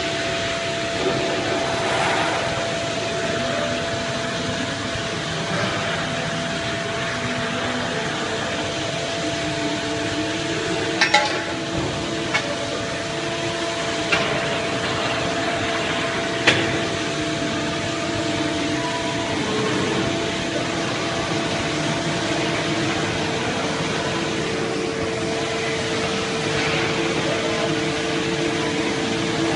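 CNC pipe bending machine running: a steady mechanical hum with a few held tones, broken by several sharp clacks between about 11 and 17 seconds in. One of the tones stops about two-thirds of the way through.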